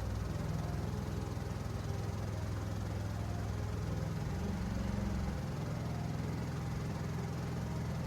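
Long-tail boat engine running steadily, its note shifting briefly about four to five seconds in.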